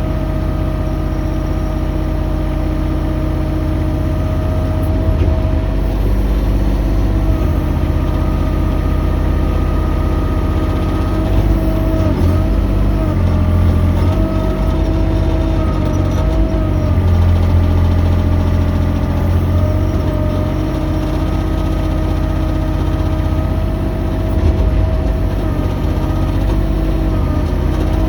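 Mini excavator engine running at a steady speed, its pitch wavering slightly a few times as the machine works.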